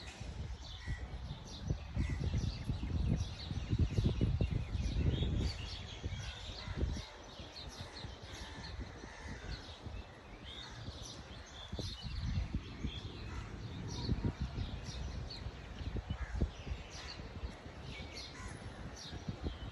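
Small birds chirping over and over, with a low rumble that swells during the first few seconds and again about twelve seconds in.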